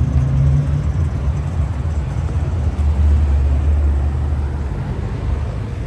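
A car engine idling nearby: a steady low rumble that swells a little midway.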